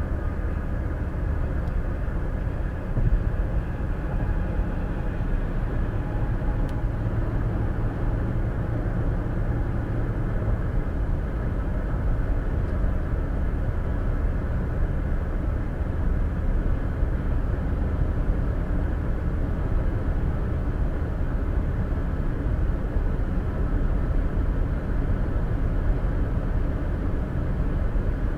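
Steady road and engine noise inside a car driving at highway speed, as picked up by a dash cam's microphone: a low, even rumble with tyre hiss.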